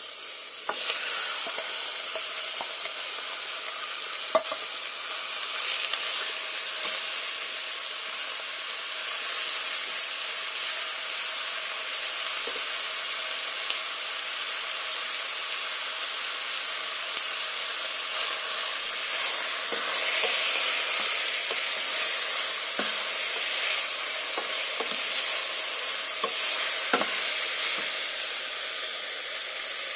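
Diced chicken breast sizzling in hot oil with sautéed onion and garlic in a stainless steel pot. The sizzle steps up about a second in as the chicken goes in, then stays steady while a wooden spoon stirs it, with a few sharp knocks against the pot.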